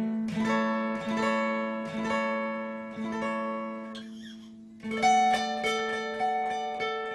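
Instrumental music: plucked guitar notes, each ringing and fading, over a steady held low note, with a short lull about four seconds in before the picking resumes more strongly.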